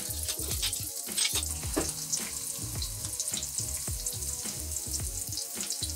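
Chopped garlic and onion sizzling in hot oil in a metal wok, a steady hiss with irregular crackles as the onions soften.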